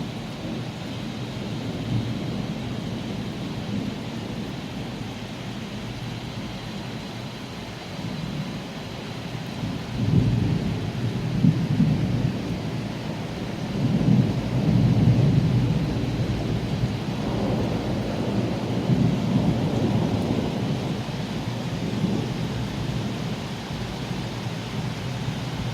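Rolling thunder over steady rain, the deep rumble swelling and fading in long waves, loudest about ten seconds in and again around fifteen seconds in.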